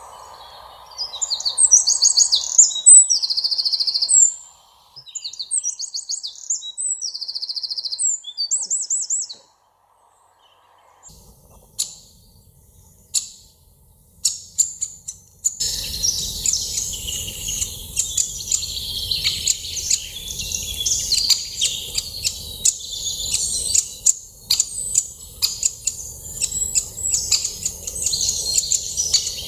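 Wild songbirds singing: loud, rapid high song phrases for the first several seconds, then a short lull with scattered chirps, and from about halfway on a denser chorus of several birds chirping over a faint steady background noise.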